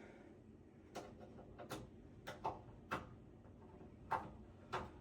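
Faint, irregular clicks and light knocks, about seven in a few seconds, from handling desktop PC parts and screws during reassembly.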